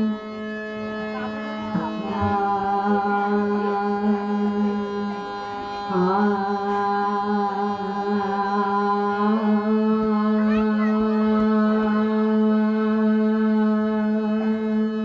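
Harmonium playing a bhajan interlude in long, steady held notes that change pitch a few times, with a low drone underneath.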